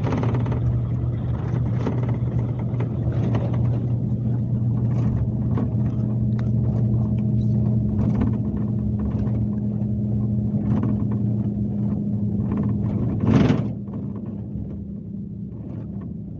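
Scania K370C coach's six-cylinder diesel engine running, heard from on board as a steady low drone. About 13 seconds in, a short loud burst cuts through, and the engine sound drops quieter after it.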